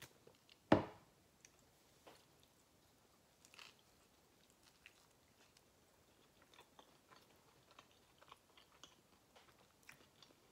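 A person chewing a mouthful of soft tortilla and cheese enchilada, faint with small wet mouth clicks scattered throughout. Under a second in, one short loud knock as a drinking glass is set down on the table.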